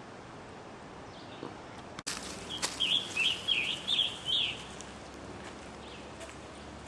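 A wild bird singing a short phrase of about six quick chirping notes, a little after a sharp click, over a faint steady outdoor background.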